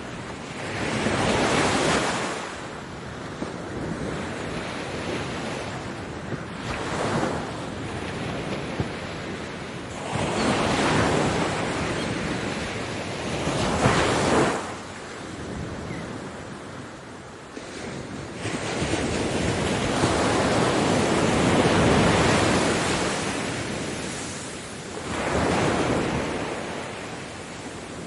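Waves breaking on a beach, the surf rising and falling in repeated surges every few seconds, with some longer, fuller swells.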